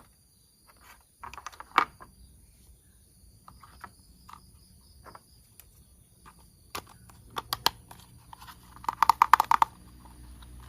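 Plastic toy train parts being handled and fitted together: scattered light clicks and knocks, with a quick run of rattling clicks about nine seconds in.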